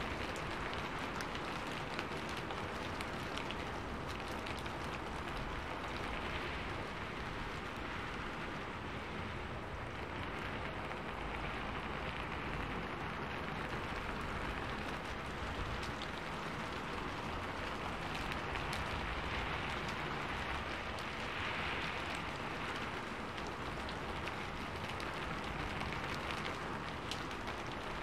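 Steady rain falling: an even hiss with many small drops ticking through it.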